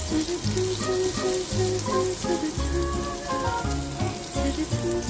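Spinach and egg frying in a pan with a steady crackling sizzle, under background music with a bouncing bass line and a melody.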